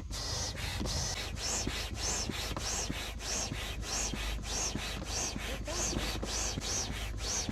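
Manual air pump inflating an inflatable boat through a hose in the valve: a steady run of strokes, a little under two a second, each a rushing hiss of air.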